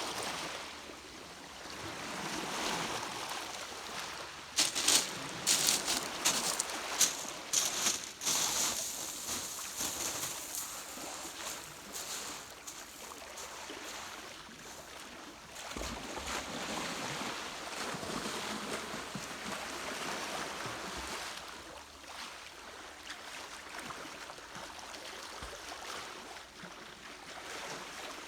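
Sea waves washing on the shore, swelling and fading every few seconds, with some wind. A run of sharp, loud noises about five to eight seconds in.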